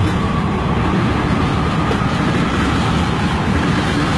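Freight train cars rolling past on the rails, a steady loud rumble of steel wheels on track.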